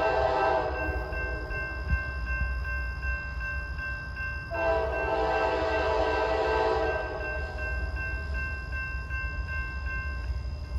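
Diesel locomotive's multi-note air horn: one blast ends under a second in, and a second long blast sounds from about four and a half to seven seconds in, over the low steady rumble of the passing train. A steady high ringing with about three pulses a second continues until near the end.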